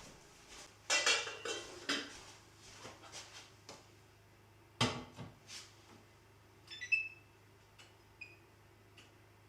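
Kitchenware being handled: a burst of clattering about a second in, a single sharp knock near the middle, then a few short ringing clinks.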